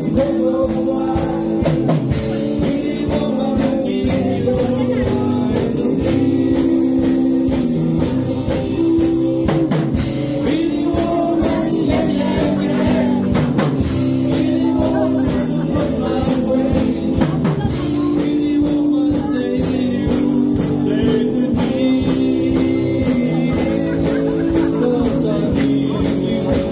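A live band playing a rock song: a singer with guitar and a drum kit keeping a steady beat.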